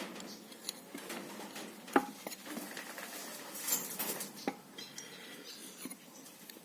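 Small metal parts being handled, with scattered light clinks and knocks. The sharpest comes about two seconds in.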